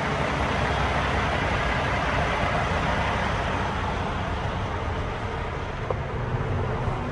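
Cummins X15 turbo diesel engine of a tandem-axle dump truck running steadily, a low engine note under a broad rushing noise.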